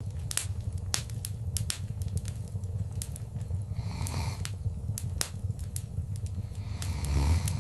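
Wood fire crackling: irregular sharp pops and snaps over a steady low rumble, with a soft whooshing swell about four seconds in and again near the end.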